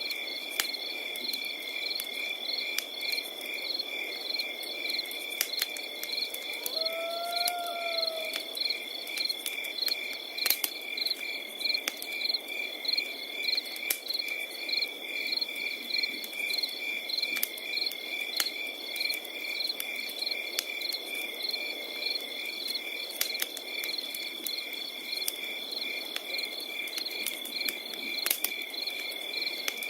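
Crickets chirping without pause: one steady high trill over faster rhythmic chirps, with a crackling fire popping and snapping irregularly beneath. A single short rising-and-falling call is heard about seven seconds in.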